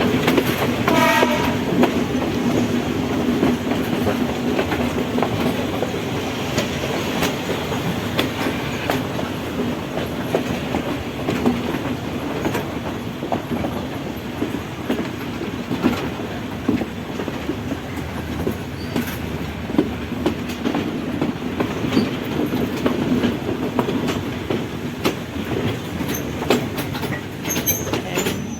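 Train running along the rails: a steady rumble with repeated clickety-clack of the wheels over rail joints. A brief pitched tone, like a horn, sounds about a second in.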